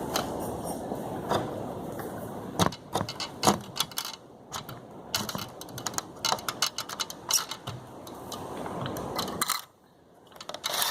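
Irregular clicks, knocks and rattles of hand work on a PVC-pipe hoop frame fitted with metal conduit straps, over a steady rushing noise early on that fades.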